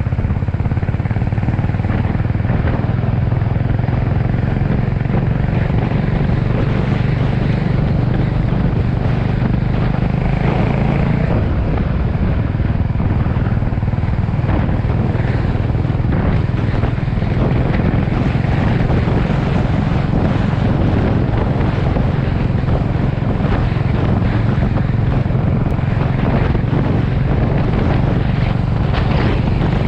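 Motorcycle engine running steadily on the move, with wind noise on the microphone; the engine note changes about eleven seconds in.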